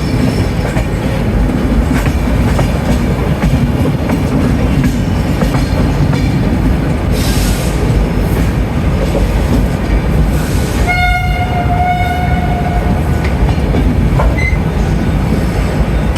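Gatimaan Express train pulling into the station with a steady rumble and wheel clatter, and bursts of hiss about seven and ten seconds in. Its horn sounds for about two seconds, starting some eleven seconds in.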